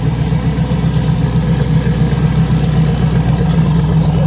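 Twin-turbocharged LS V8 idling steadily just after its first start-up.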